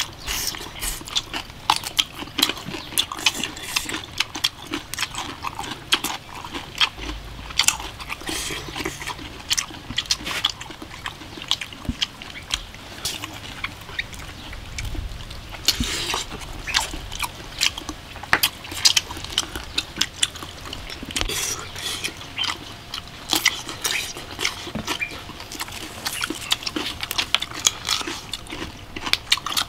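Close-up eating sounds of a person chewing cooked pig intestine: irregular wet smacks, bites and crisp clicks of the mouth and fingers, with no pause.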